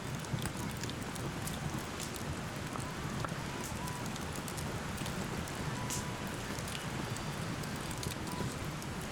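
Wood campfire burning with a steady hiss and many scattered crackles and pops.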